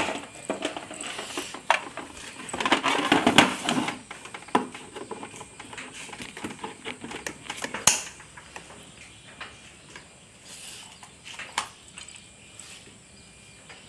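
Clicks, knocks and light clatter of hard objects being handled, busiest about three seconds in, with one sharp click about eight seconds in, then quieter handling.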